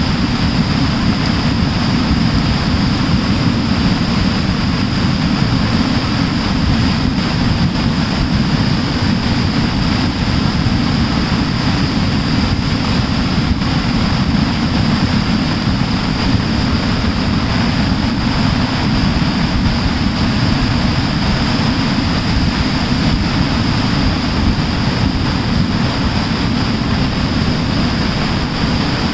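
Swollen Baner Khad (Banganga river) in flood after a cloudburst: loud, steady rushing of floodwater, heaviest in the low rumble, with a constant high hiss over it.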